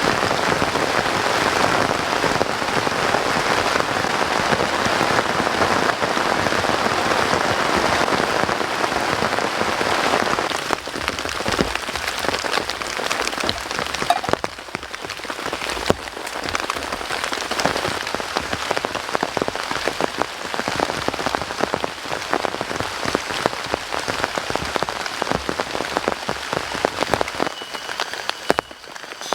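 Heavy rain falling, a dense steady hiss for about the first ten seconds that then thins into a patter of many separate drops.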